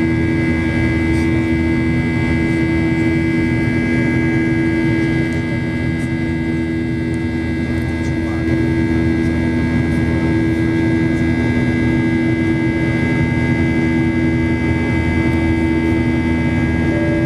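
Jet cabin noise on a Boeing 737-800: the CFM56 engines and airflow make a steady roar, with several steady hum tones over it. At the very end a cabin chime begins.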